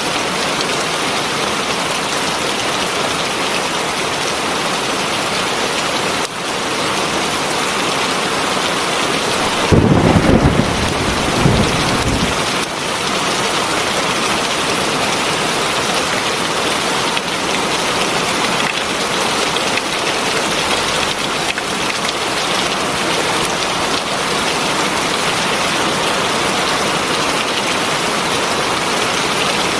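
Heavy rain falling steadily, with a low rumble of thunder about ten seconds in that lasts two or three seconds.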